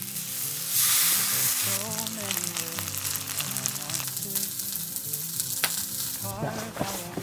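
Food frying on a hot cooking surface: a loud sizzle swells up about a second in, then goes on with spattering crackles and pops.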